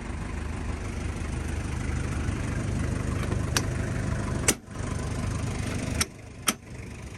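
Mazda Bongo Brawny's R2 diesel engine idling steadily, broken by sharp clicks about halfway through and near the end. After the click near the end the engine sound drops away.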